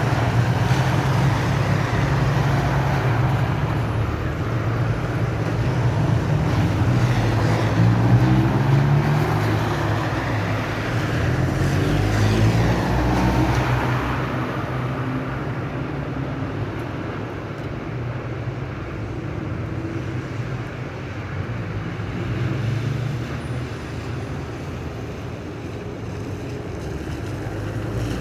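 A motor vehicle running with steady road noise, its engine pitch rising and falling several times.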